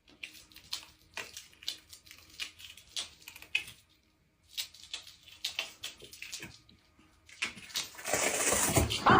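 Water sounds: a long run of small, irregular splashes or drips, then a louder rush of water in the last second or two.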